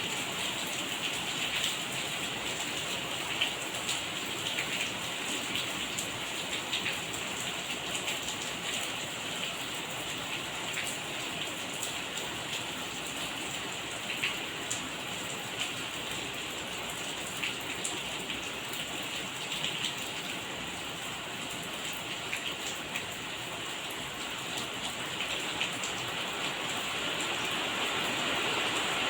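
Steady rain falling, a constant hiss of rain with many separate drops ticking through it, growing a little louder near the end.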